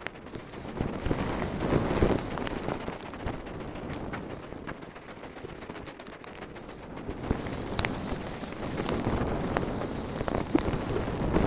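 Mountain bike rolling over a dirt trail: a steady rush of tyre and wind noise with many small clicks and rattles, louder near the start and again over the second half.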